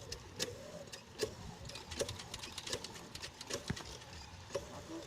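Chinese diesel irrigation pump engine turning over slowly, with a sharp knock about every three-quarters of a second over a low rumble.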